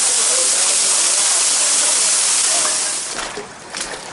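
Loud, steady rush of water, an even hiss that cuts off abruptly about three seconds in. A quieter background with a few faint clicks follows.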